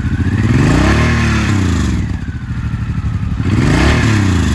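Suzuki Boulevard M90's big-bore V-twin idling and revved twice, its pitch rising and falling back to idle each time: once about a second in and again near the end.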